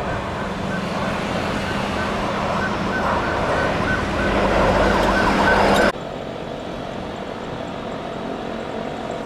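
Jet airliner passing close on its landing approach, its engine noise growing steadily louder, then cut off abruptly about six seconds in, after which a quieter steady background rumble continues.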